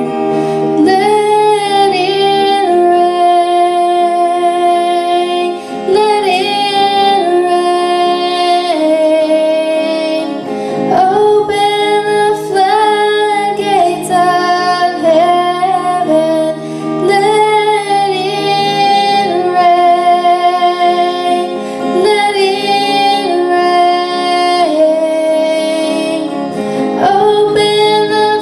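A woman singing a worship song over guitar accompaniment, with long held notes and gliding phrases.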